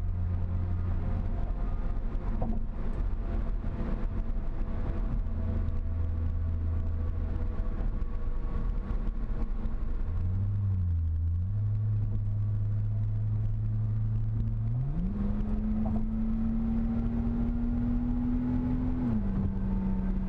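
Ford Fusion Sport's 2.7-litre twin-turbo V6, with a Magnaflow axle-back exhaust and both resonators deleted, heard inside the cabin while cruising at highway speed. A low, steady exhaust hum sits under road noise. Its pitch rises about 15 seconds in, holds, and falls back near the end as engine speed changes.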